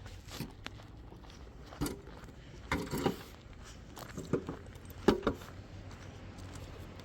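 A few irregular knocks and clatters in small clusters over a low steady background, the loudest about five seconds in.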